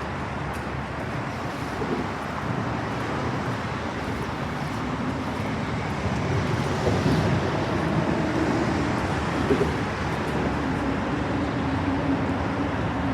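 Road traffic noise: vehicles running past, with a steady engine hum coming in about halfway through.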